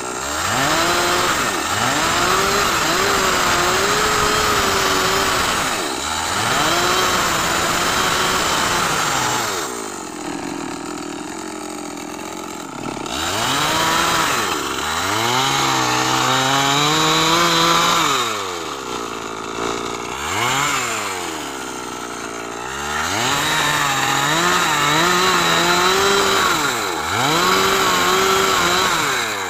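Chainsaw engine revved up to full speed again and again, wavering under load as it cuts wood. It drops back to idle between cuts, with a few quick blips of the throttle about two-thirds of the way in.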